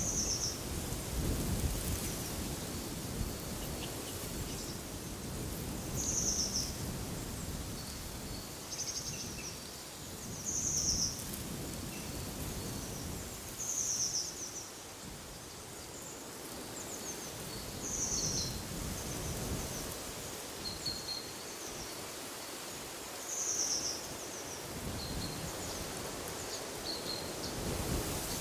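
Wind gusting and rumbling, rising and falling, while a bird repeats a short, high call every few seconds, with fainter chirps between.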